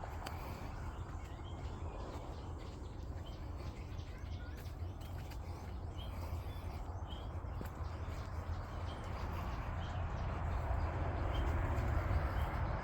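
Forest birds calling with short chirps about once a second, over a steady low rumble of walking and handling noise.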